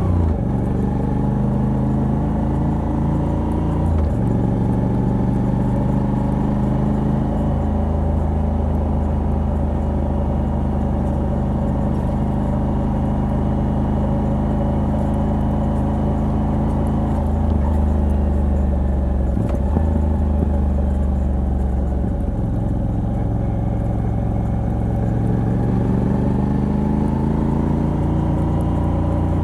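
Moto Guzzi V85TT's air-cooled 853 cc transverse V-twin running under way through its stock exhaust fitted with a Mistral decat pipe. The engine note steps abruptly several times as gears change, and rises steadily near the end as the bike accelerates.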